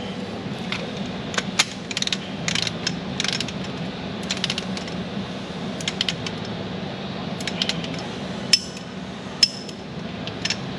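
Wrench ratchet clicking in short bursts of strokes as the hold-down bolt of an ISX injector-cup tool is tightened to 59 foot-pounds, with two sharper single clicks near the end.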